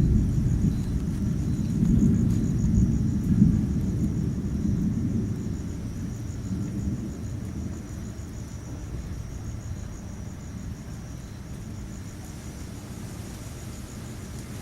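Rolling thunder rumbling low and fading away over the first half, while insects chirp steadily in a fast high-pitched pulse.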